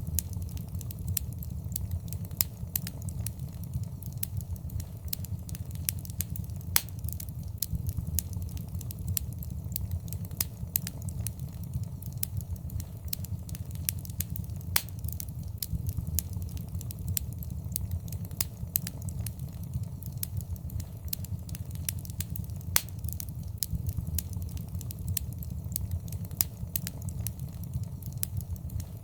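Wood fire in a fireplace crackling: sharp, irregular pops and snaps over a steady low rumble of the flames.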